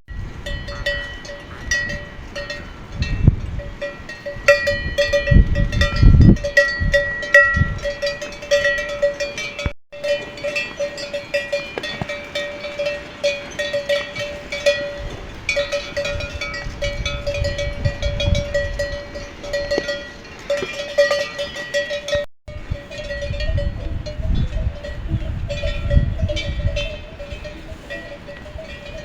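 Metal livestock bells clanking and ringing without pause, a jangling ring with irregular clinks as the herd animals move, over a low rumble. The sound drops out briefly twice.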